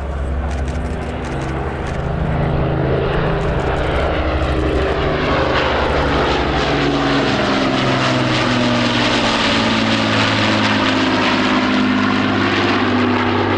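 Propeller-driven aircraft flying past, its engine drone growing louder about two seconds in, its tones sliding lower in pitch as it passes.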